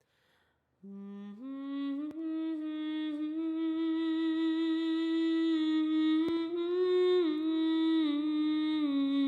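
A woman's voice singing a long wordless held note a cappella as the opening of a Ukrainian folk-song arrangement. It comes in about a second in and steps up almost at once, then holds the note with small pitch shifts near the end.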